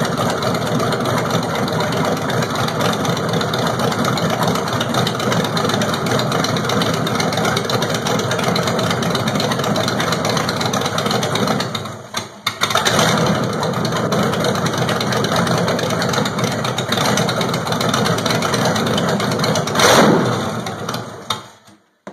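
GM LT1 350 V8 running steadily on vaporized fuel. About halfway through it stumbles and nearly dies as extra air is let into the intake, leaning out the vapor mixture, then picks back up; near the end it surges briefly and then runs down and stops.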